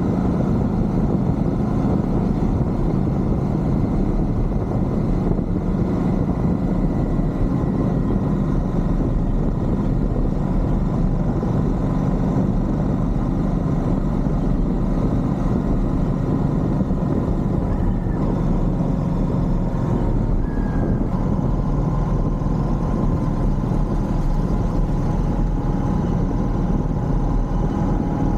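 Royal Enfield Shotgun 650's 648 cc parallel-twin engine running steadily at cruise, heard from the moving motorcycle.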